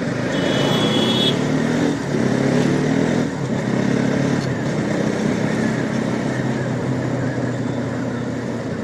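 Bajaj Pulsar NS200 motorcycle's single-cylinder engine running while riding along a street, its pitch climbing a few times as the throttle is opened, over steady road and wind noise. A brief high tone sounds for about a second near the start.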